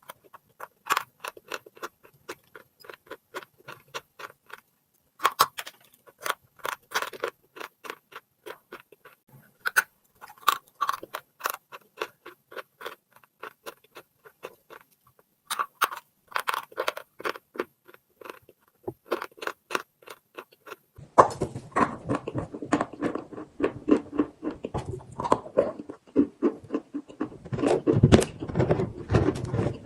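Chalk being bitten and chewed close to the microphone: rapid, crisp crunching clicks in quick clusters. About 21 seconds in the sound changes to denser, lower, mushier chewing over a steady hiss, and grows loudest near the end.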